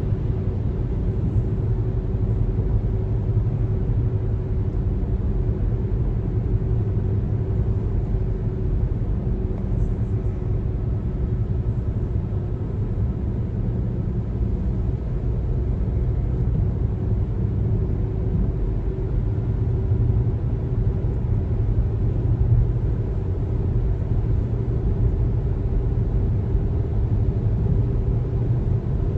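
Road noise of a car driving: a steady low rumble of tyres and engine, with a faint steady hum above it.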